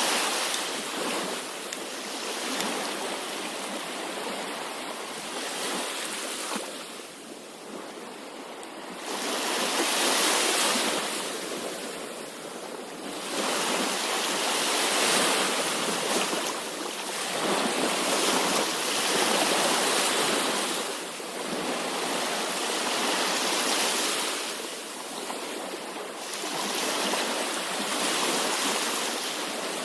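Sea waves breaking and washing on a shore. The surf swells and falls away every few seconds.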